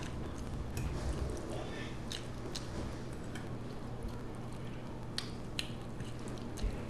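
Close-up chewing and mouth sounds of someone eating spaghetti with meat sauce, with a few sharp clicks scattered through, over a steady low hum.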